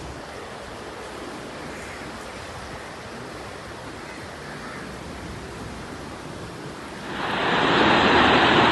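Heavy rain: a steady rushing hiss that grows sharply louder and fuller about seven seconds in.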